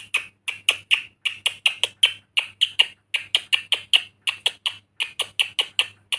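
Pet parrot calling in a fast, even series of short, sharp chirps, about four or five a second.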